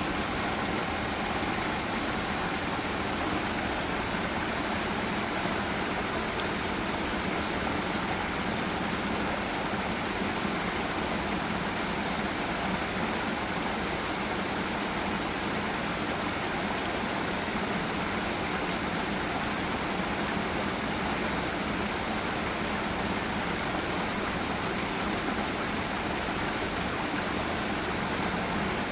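Forest river and waterfall: water rushing steadily, an even, unchanging hiss.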